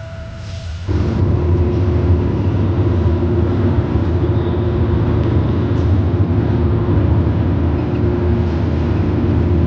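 Road and engine noise inside a moving car: a steady low rumble with a faint hum, starting abruptly about a second in.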